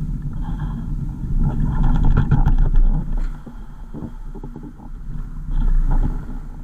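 Vehicle on the move: a steady low rumble with scattered knocks and rattles, easing off in the middle and swelling again near the end.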